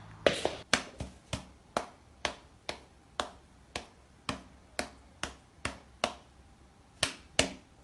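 A run of sharp, short clicks or taps, about two a second, with a pause of about a second before the last few.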